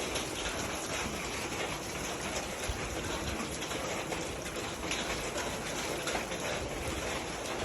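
Rain falling steadily on a surface: a dense, even patter of drops that holds at the same level throughout.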